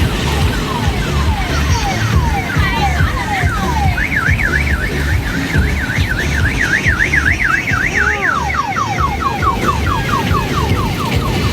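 Electronic siren sounds cycling through patterns: falling sweeps about twice a second, then from about four seconds in a fast up-and-down warble, then from about eight seconds quicker falling sweeps. A steady low beat runs beneath.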